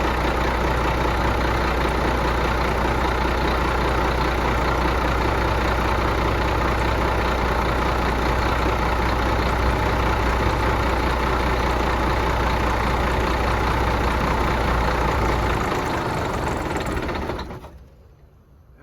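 Detroit diesel engine running loud and steady, being run to destruction. About fifteen seconds in its deep note drops away, and it winds down and stops shortly before the end.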